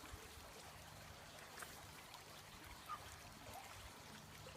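Near silence: faint background hiss with a low hum and a couple of tiny faint clicks.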